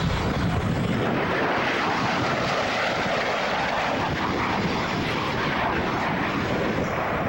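Fixed-wing airplane engine running loud and steady, a broad rushing noise whose highest part thins over the last couple of seconds.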